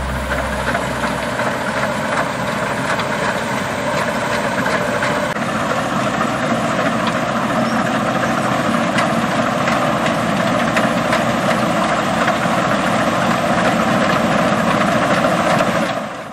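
A heavy harvest machine's engine running steadily at a constant note.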